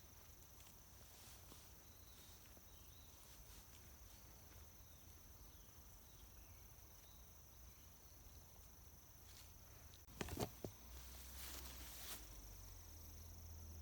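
Faint, steady high-pitched chirring of crickets or other insects. About ten seconds in come a few quick knocks and a brief rustle, then a low hum.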